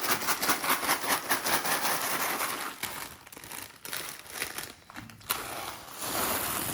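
Small plastic Lego pieces rattling together inside a plastic bag as it is shaken to mix them, with the bag crinkling. The rattling is dense and rapid for about three seconds, thins out, then picks up again near the end.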